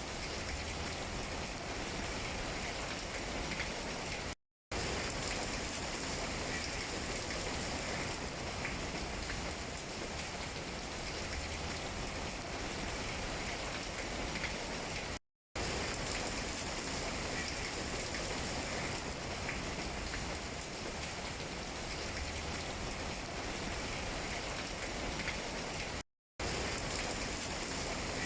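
Steady rain falling on tree leaves, with faint scattered drop ticks. The sound cuts out to silence for a fraction of a second three times, about eleven seconds apart.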